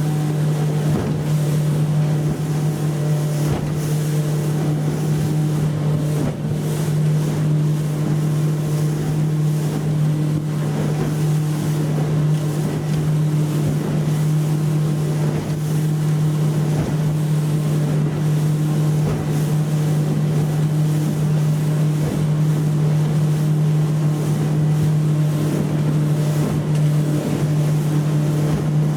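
Yamaha F90C four-stroke outboard motor running steadily at speed, a constant even drone, with water rushing past the hull and wind buffeting the microphone.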